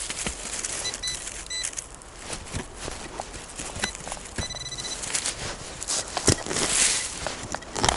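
Footsteps crunching and snapping through forest leaf litter and twigs, with a louder rustle about seven seconds in. A few short high beeps sound between the steps.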